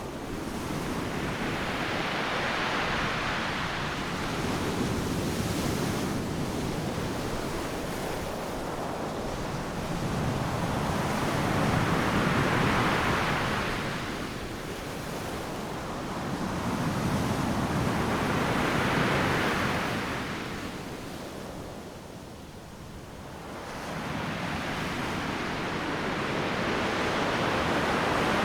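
Ocean surf: waves breaking and washing up the beach one after another, the rush of noise swelling and ebbing every several seconds, with a brief lull about three quarters of the way in.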